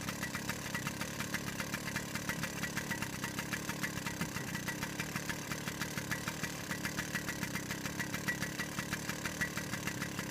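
Small single-cylinder pit bike engine idling steadily, with an even pulsing beat.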